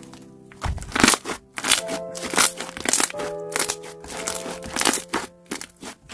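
Slime being pressed and squeezed by hand, giving sharp crackling crunches about every half second, over soft background music.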